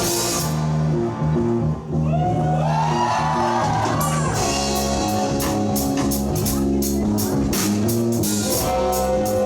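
Live rock band playing an instrumental passage: electric guitars, bass guitar and drum kit. About two seconds in the cymbals drop back while a guitar plays sliding, bent notes, and from about halfway the drums come back in with steady cymbal hits.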